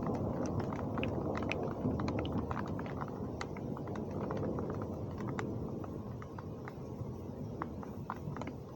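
Heavy rain falling, a steady low rushing noise with many sharp drips and splashes ticking over it; it eases a little in the second half.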